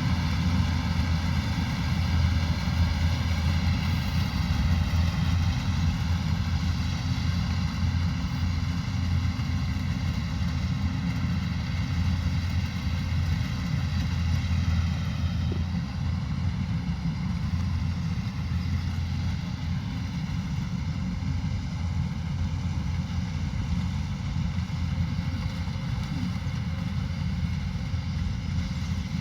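Kubota rice combine harvester running steadily: a constant low engine drone with a high, even whine layered above it.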